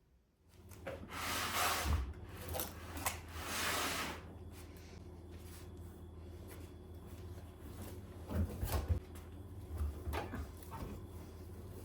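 Household handling sounds: two longer rubbing, scraping sounds in the first four seconds, then a few knocks and clicks near the end, over a steady low hum that starts at the beginning.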